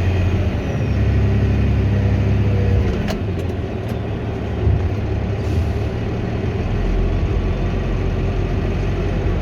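Volvo A25D articulated dump truck's diesel engine running steadily while the bed is raised to tip its load; about three seconds in there is a click and the engine note shifts, and it runs deeper near the end.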